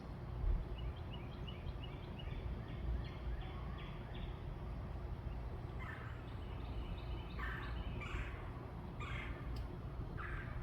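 Backyard birds calling: a quick run of short high chirps in the first few seconds, then several short harsh bursts in the second half, over a steady low rumble.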